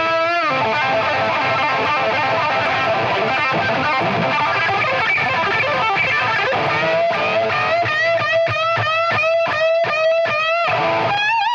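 Distorted electric guitar playing through effects: a thick sustained wash of notes, then in the second half a choppy phrase of short repeated notes about three a second, each bent with wide vibrato.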